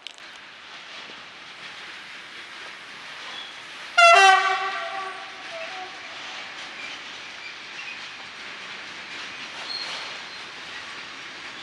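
Siemens ES64U4 electric locomotive sounds its horn once, a loud blast of about two seconds about four seconds in, over the steady rolling noise of its freight wagons passing.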